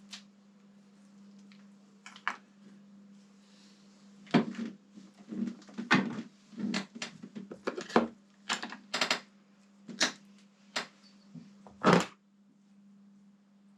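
A string of sharp knocks and clatters, about a dozen, of tools and metal parts being handled and set down, over a steady low hum.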